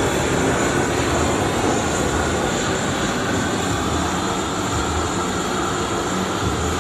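Steady, loud roar of the gas burners in a glassblowing hot shop's furnace and glory hole, running evenly with a faint whine on top.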